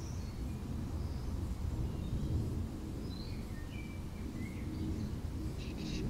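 Small garden birds chirping faintly in short scattered calls over a steady low rumble of outdoor background noise.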